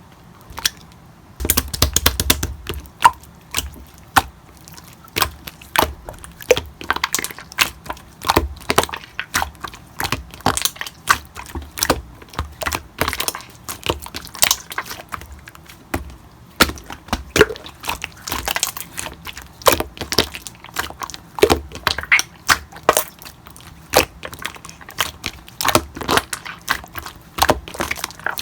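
Slime being squished and poked by hand, giving a dense, irregular run of sharp pops and crackles that starts about a second and a half in.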